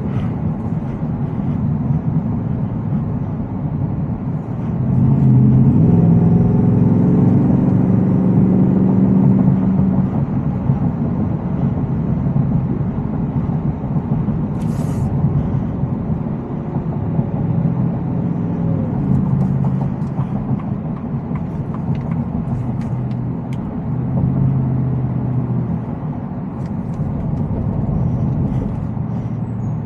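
Supercharged 5.0-litre V8 of a Shelby F-150 Super Snake pickup running under way, heard from inside the cab. The engine note grows louder about five seconds in and holds for several seconds as the truck pulls, then swells twice more. There is a brief hiss about halfway through.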